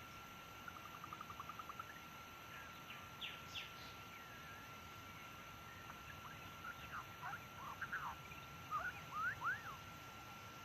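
White-rumped shama singing: a quick run of short repeated notes about a second in, then scattered clear whistles and rising and falling sweeps, loudest near the end. A thin steady tone runs underneath.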